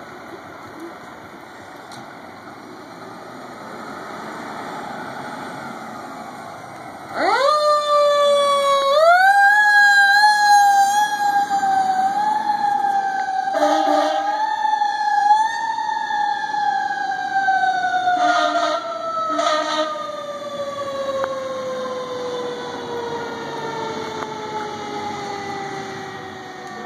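Fire engine siren: after a rising rumble of the truck approaching, the wail starts suddenly about seven seconds in, climbs and holds high, then slowly winds down in pitch for the rest of the time. A few short horn blasts sound over it in the middle.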